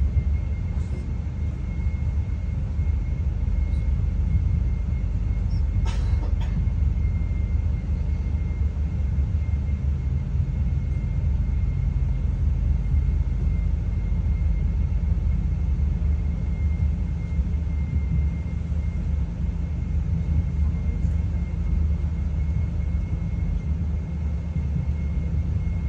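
Steady low rumble heard inside a passenger train carriage as it runs along the track, with a faint steady high whine the whole way through. A short click about six seconds in.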